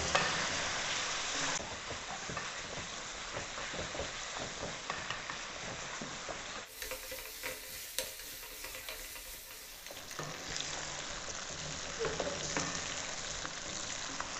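Chicken pieces sizzling steadily as they fry in hot oil over high heat, with a wooden spoon stirring them and giving scattered light knocks against the aluminium pot.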